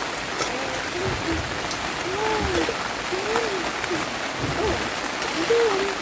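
Steady rain hiss with faint drop ticks, and faint voices talking in the background.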